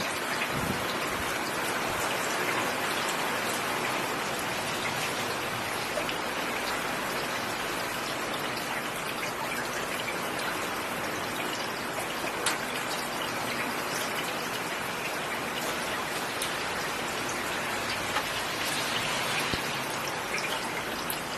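Steady rainfall with scattered individual drop ticks.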